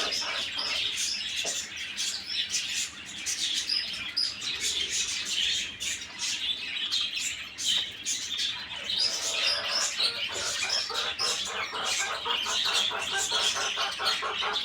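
Many small birds chirping and chattering at once, with overlapping high calls. About two-thirds of the way through, a fast run of repeated notes joins in, several a second.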